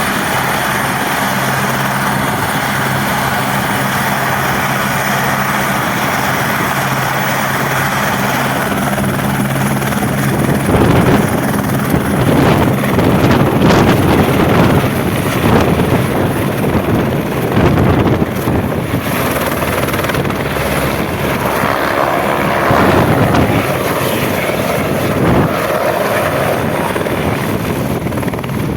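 Airbus H125 helicopter's single turboshaft engine and rotors running, at first with a steady low hum. About ten seconds in it grows louder and rougher, with gusting rotor wash on the microphone.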